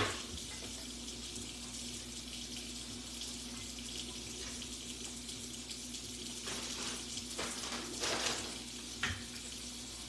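Water running steadily from a kitchen tap into the sink, with a short knock near the end.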